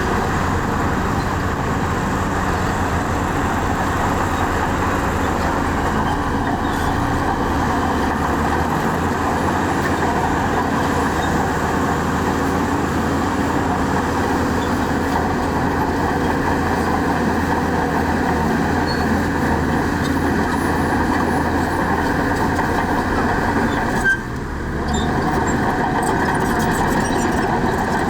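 Heavy diesel engines of earthmoving machinery running steadily, with a sudden brief drop in level near the end.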